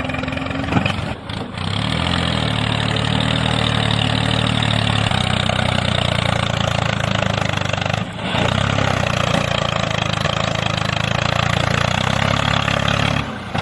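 A motor running steadily at a constant pitch, with brief dropouts about a second in and again around eight seconds.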